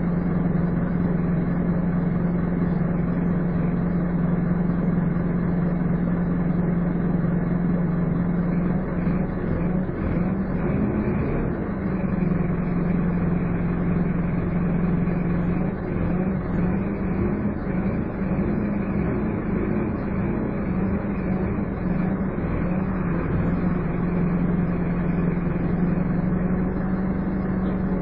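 Scania N230UD double-decker bus engine heard from on board, with the whining 'hoover' drone that gives these Scanias their nickname. The drone holds one steady pitch, wavers and breaks up twice in the middle, and settles back to steady near the end.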